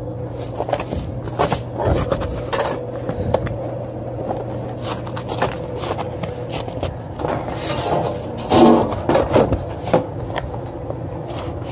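Tools being rummaged through and a socket set handled: scattered clicks, clinks and scraping of metal tools, busiest about eight to nine seconds in.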